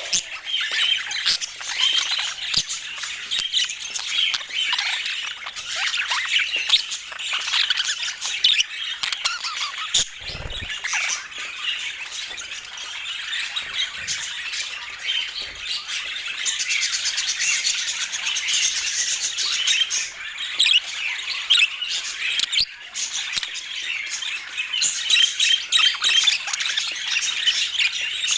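A flock of budgerigars chattering and squawking, a dense, continuous stream of rapid chirps and harsh calls. A dull thump sounds about ten seconds in.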